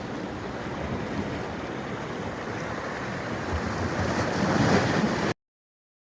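Running water, a steady rushing that swells slightly near the end, then cuts off abruptly about five seconds in.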